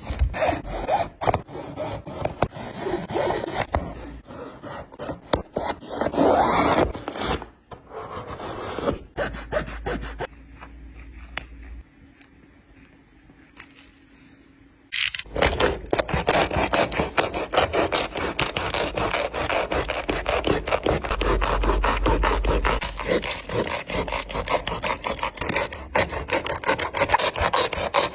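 A shoe being cut and torn apart by hand: uneven scraping and rubbing, quieter about halfway, then a long run of fast, even rasping strokes, several a second, as the tool works through the shoe.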